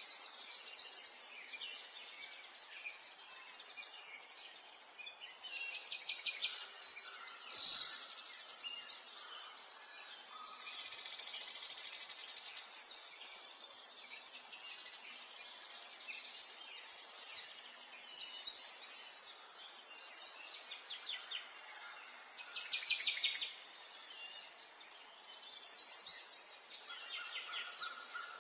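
Several birds singing and chirping, with rapid trills and repeated high notes one after another, over a faint steady outdoor hiss.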